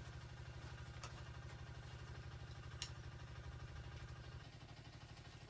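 A small engine running steadily at low speed, with an even pulsing beat, and two faint clicks.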